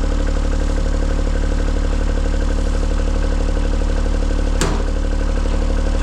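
An engine running steadily at idle, with a single sharp clack about four and a half seconds in.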